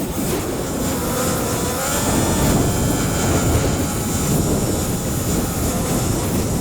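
Drone propellers and motors whining, with several tones slowly wavering up and down in pitch over a low rushing rumble.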